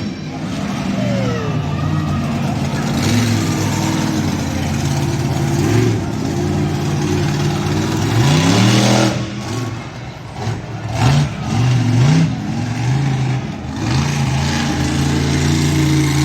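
Monster truck engine running loud with repeated hard revs, the pitch climbing sharply several times in quick succession past the middle, then settling to a steady drone.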